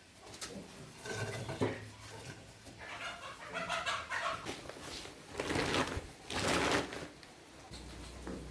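Farm animals calling: several short pitched calls, then two louder, harsher bursts about the middle.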